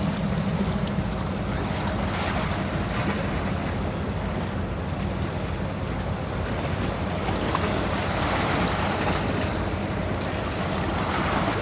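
Surf washing against the inlet jetty and wind on the microphone, over the low steady drone of boat engines running through the inlet. The drone is strongest in the first second or so.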